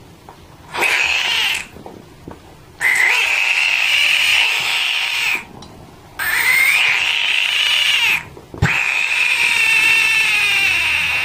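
Horned frog (Pac-Man frog) screaming as it is poked with a finger, a defensive distress call. It gives four high-pitched screams: one short, then three long ones of about two seconds each, with short breaks between them.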